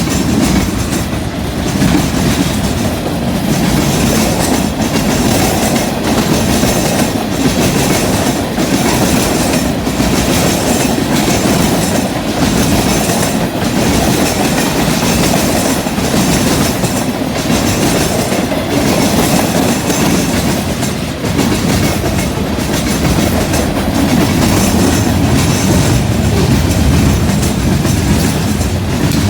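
Freight train cars rolling past at close range, with a steady rumble and clatter of steel wheels over the rail joints and a junction switch.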